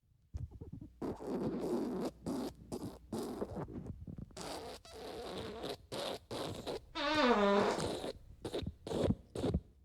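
A string of fart sounds: many short sputtering blasts with brief gaps between them, and around seven seconds in a longer, squeaky one whose pitch falls.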